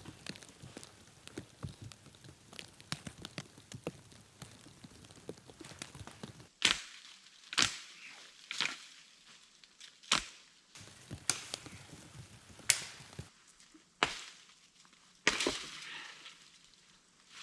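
Small crackling and rustling, then from about six seconds in a series of sharp chopping strikes on wood, roughly one a second.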